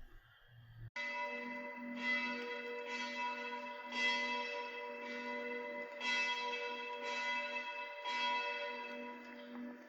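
A church bell ringing, starting suddenly about a second in and struck about once a second, each stroke ringing on into the next.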